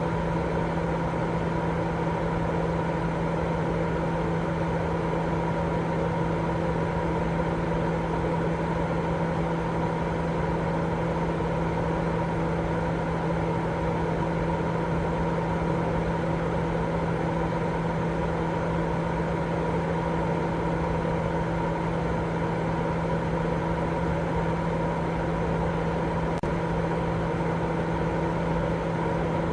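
Continuous sleep-aid noise, steady and unchanging, weighted toward the low end with a low hum running through it.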